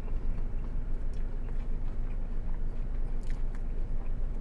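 A person chewing and biting a crunchy hard-shell taco, with a few crisp crunches, over a steady low hum.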